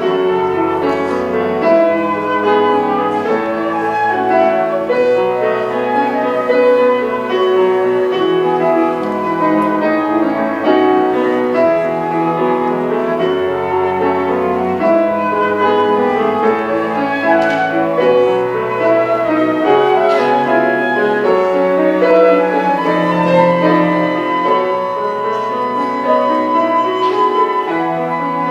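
Contemporary chamber music for flute, cello and piano, played live: sustained flute and cello lines over piano chords.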